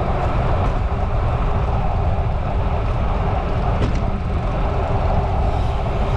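Steady low wind rumble on the microphone, mixed with tyre and road noise from a moving bicycle.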